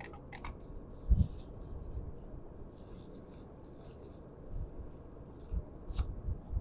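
Faint handling noises: light rustling and scraping, with a soft knock about a second in and a sharp click near the end.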